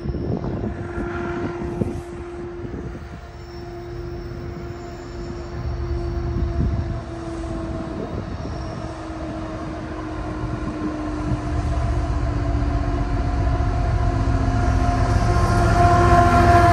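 GE Evolution Series diesel locomotives approaching: a low engine rumble with a steady whine, getting louder toward the end.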